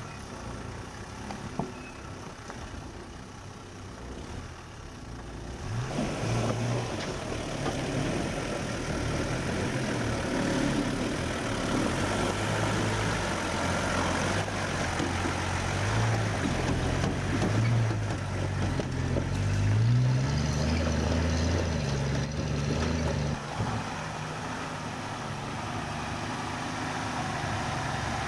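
Four-wheel-drive vehicle's engine working up a rough track, its revs rising and falling, and louder from about six seconds in.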